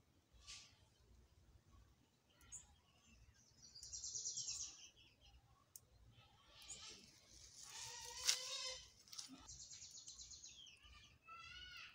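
Birds calling: two fast high trills, one about four seconds in and a longer one from about six and a half to ten seconds, with a sharp click about eight seconds in and a few falling chirps near the end.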